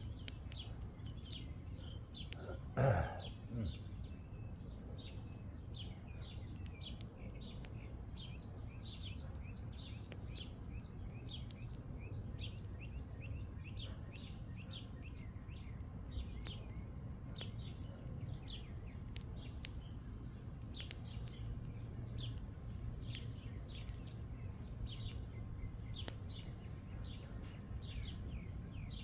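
Small birds chirping continuously, many short high chirps several a second, over a steady low background hum. A brief louder sound stands out about three seconds in.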